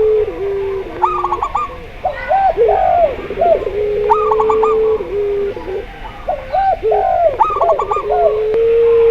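Zebra dove, spotted dove and ringneck dove cooing together: long drawn-out low coos lasting a second or two, overlapping quick runs of short high notes and arched mid-pitch coos, the pattern repeating about every three seconds.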